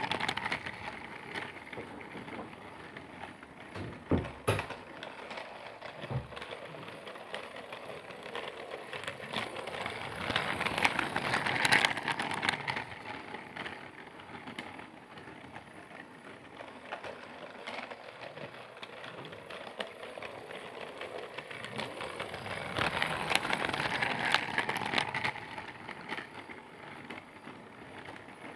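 A Percy toy train running along its track with a steady clattering rattle, growing louder twice, about eleven seconds apart, as it comes close.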